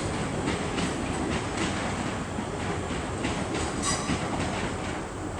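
Train wheels rolling over rail joints in the station, a steady rumble with regular clicks, and a short high wheel squeal just before four seconds in.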